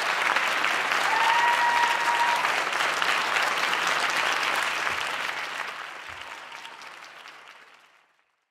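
Audience applauding, with a short whistle over it about a second in; the clapping fades out to silence over the last few seconds.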